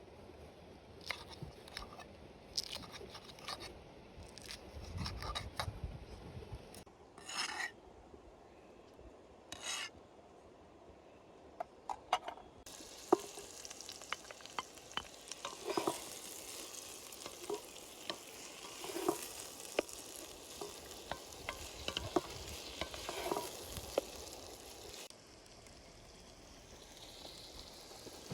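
Food sizzling as it fries in a pot, with a utensil stirring and clicking against the pot. The first part has separate clicks and knocks; from about halfway a steady sizzle runs under them, dropping back near the end.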